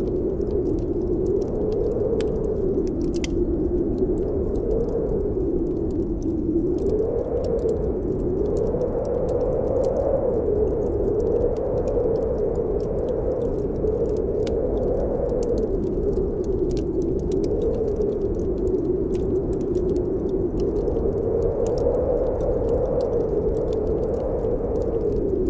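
Blizzard wind howling steadily with a slowly wavering pitch over a low rumble, with scattered faint ticks on top.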